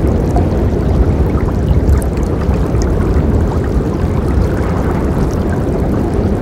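River water flowing and gurgling steadily, a dense low rushing with faint splashes on top.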